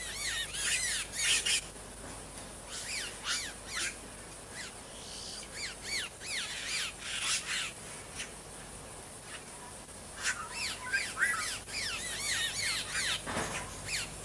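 A colony of boyeros (caciques) calling: bursts of short, squawking, chattering calls, several birds at once, with brief lulls between the bursts.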